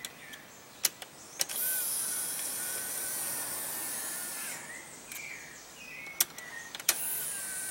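The small DC motor of a Nissan U13 Bluebird's power door mirror runs with a steady whine for about three seconds, stops, then starts again near the end, with sharp clicks before each run. The mirror is working again after its motor brushes were cleaned and a cracked polyfuse was replaced.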